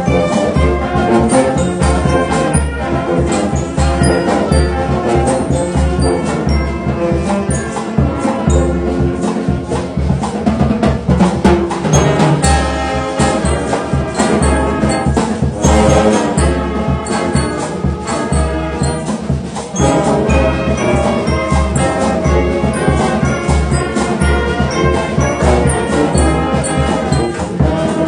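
Brass band playing with drums: trumpets and trombones carrying the tune over a steady low drum beat.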